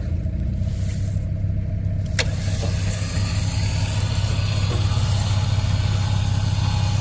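Engine idling steadily, with a single sharp click about two seconds in; the running gets a little louder after about three seconds.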